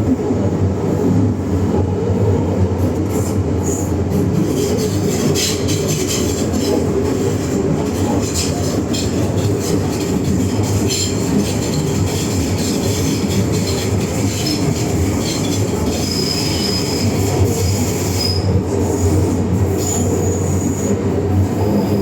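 MTR M-train metro car running at speed through an Island Line tunnel, heard from inside the car: a steady, loud rumble of wheels on rail, with scattered clicks and a few brief high wheel squeals.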